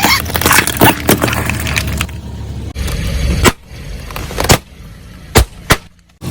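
Car tyre rolling over and crushing objects: dense crackling and crunching over the car's low rumble, then a few separate sharp cracks as items give way.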